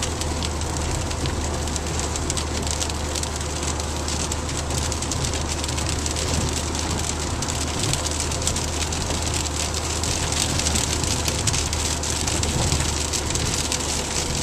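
Heavy rain pelting a car's roof and windows from inside the cabin, a dense steady patter of many fine hits. Underneath is the steady low drone of the car.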